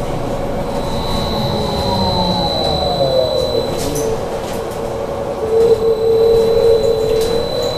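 BKM 43300D trolleybus's electric traction drive whining while under way: its tones slide down in pitch over the first few seconds, then hold steady and grow louder in the second half, over a constant high whistle.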